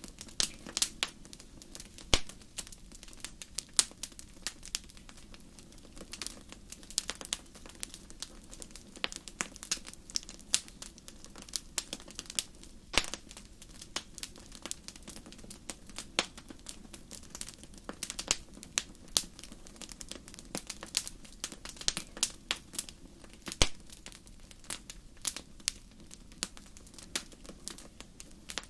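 Wood fire crackling in a fireplace: irregular sharp pops and snaps, a few of them louder, over a steady low rush of burning.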